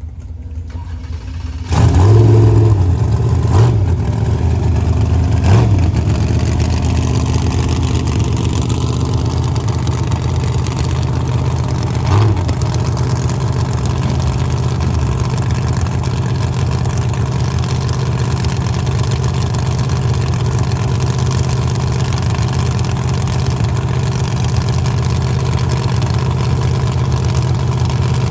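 Drag race car engine catching with a sudden loud start about two seconds in, blipped on the throttle a few times, then settling to a steady loud idle.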